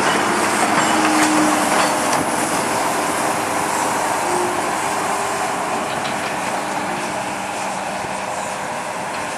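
Diesel shunting locomotive and an open wagon rolling slowly along the track: steady wheel-on-rail noise with a few clicks and faint squeal tones, fading gradually as they move away.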